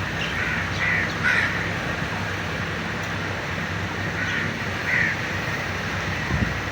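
Grey francolin (teetar) calling: harsh notes in two groups, three quick ones about half a second in and two more around four to five seconds in, over a steady low hum. A brief thump near the end.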